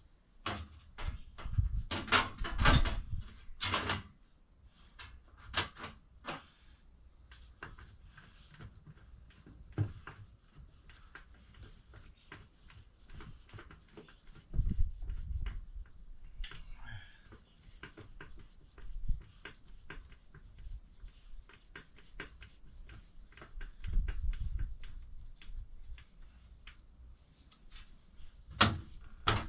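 Irregular knocks, clicks and thumps of things being handled, with heavier thuds in clusters near the start, about halfway through and near the end.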